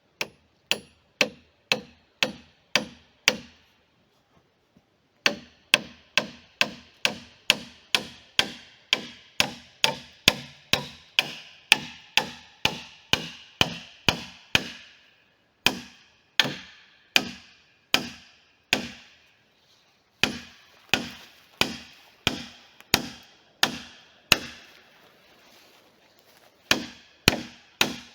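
Hammering on wood: a steady run of sharp, ringing blows at about three a second, stopping briefly a few times and starting again.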